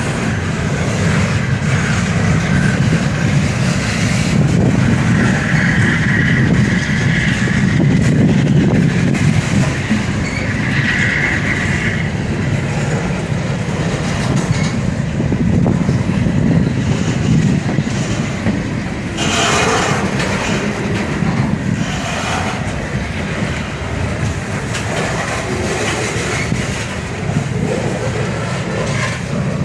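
Freight train rolling past close by: a steady rumble of wheels on the rails, with wheel squeals about five to seven seconds and eleven seconds in. Sharper metallic noises come about nineteen and twenty-two seconds in.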